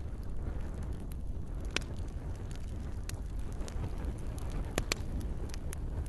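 Campfire burning with a steady low rumble, broken by a handful of sharp crackles and pops of the burning wood, two of them close together near the end.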